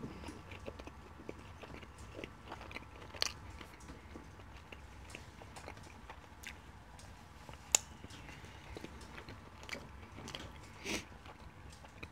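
Close-up chewing and mouth sounds of a person eating chicken curry with his fingers: soft wet chewing with scattered small clicks and smacks, one sharp click about two-thirds of the way through.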